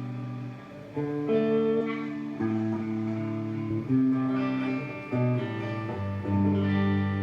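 Guitar playing a sequence of chords, each ringing on until the next is struck, with a change of chord every second or so.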